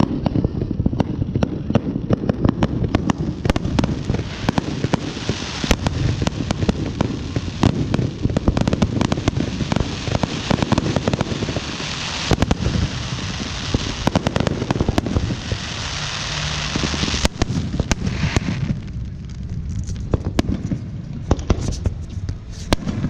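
Fireworks crackling and popping in dense, rapid runs, with stretches of steady hissing.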